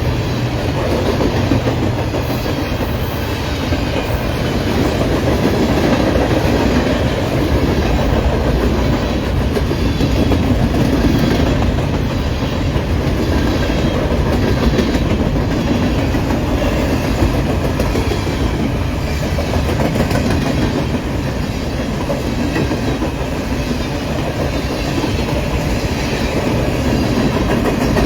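A train's cars rolling steadily past on the track, the wheels clicking over the rail joints.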